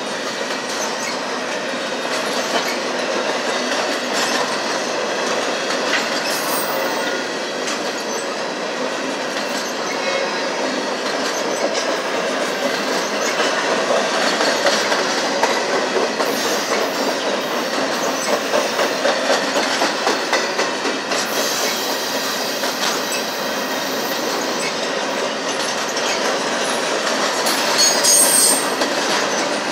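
Double-stack container cars rolling past: a steady clatter of steel wheels on rail, pulsing in rhythm in the middle, with a brief high-pitched wheel squeal near the end.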